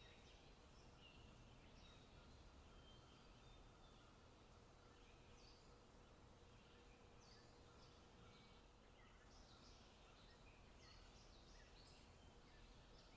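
Faint forest ambience: many short bird chirps and calls scattered throughout, over a low steady rumble.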